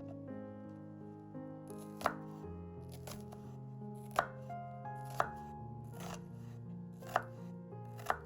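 Knife chopping on a cutting board: about five sharp, separate strikes a second or two apart, over soft background music.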